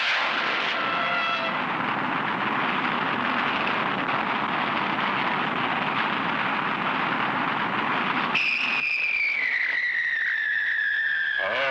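Cartoon rocket sound effect: a steady rushing roar of noise, then about eight seconds in a long whistle that glides slowly downward.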